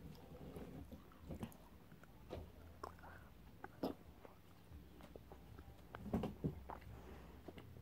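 Candy being bitten and chewed close to the microphone: faint, irregular mouth clicks and smacks, a little louder about four seconds in and again about six seconds in.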